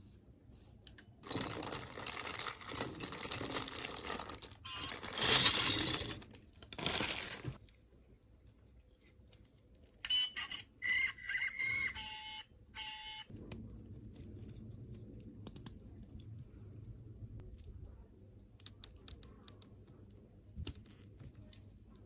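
Plastic packaging rustling and crinkling for several seconds as the toy is unpacked. About ten seconds in come a few short electronic beeps and chirps from the electronic toy. Scattered small plastic clicks of handling follow.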